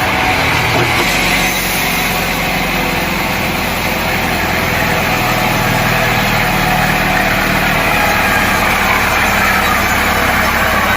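Engine-driven sawmill machinery running steadily, the engine's note shifting about a second in.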